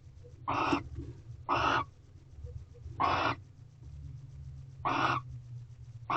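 Barn owl hissing: five short, rasping hiss calls, about one every second or two, the last right at the end.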